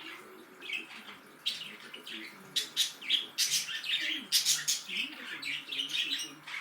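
Budgerigars chirping and chattering: quick, irregular runs of short, sharp chirps.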